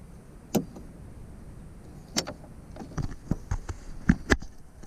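Irregular knocks and clatter in a small fishing boat while a just-caught snakehead is handled for unhooking: a sharp knock about half a second in, then a quicker run of them in the second half, the loudest two near the end.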